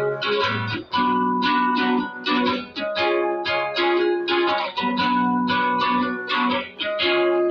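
Guitar playing a song's instrumental introduction: chords plucked or strummed in a steady rhythm of several strokes a second, the chord changing about every second.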